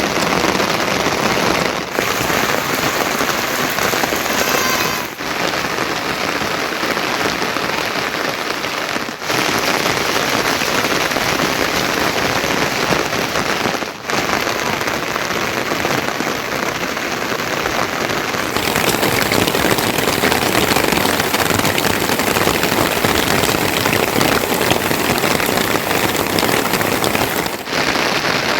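Heavy rain falling steadily as a dense hiss. It dips briefly a few times, and its higher, hissing part grows fuller about two-thirds of the way through.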